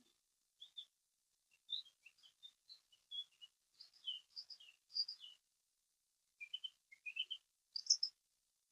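A songbird singing a run of quick chirps and short whistled notes in several bursts, the last one near the end the loudest.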